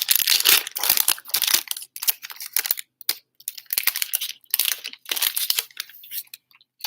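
Trading-card pack wrapper of a 2020 Playbook football pack being torn open and crinkled by hand, in a run of irregular crackling rips that stop about six seconds in.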